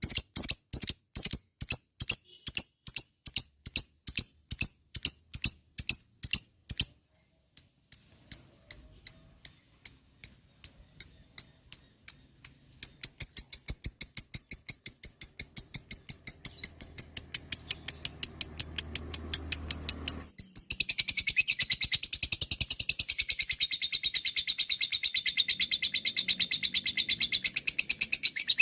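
Lovebird giving its 'ngekek' call: a long run of sharp, high chirps repeated rapidly, about three a second at first, with a short break about seven seconds in. The chirps then quicken and, after about twenty seconds, run together into a denser, continuous chatter.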